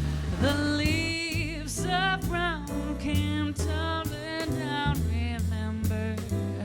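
Swing jazz played live: a melodic lead line over bass and drums, with regular cymbal strokes keeping time.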